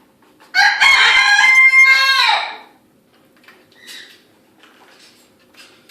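A rooster crowing once: a single loud crow about two seconds long that drops in pitch at the end.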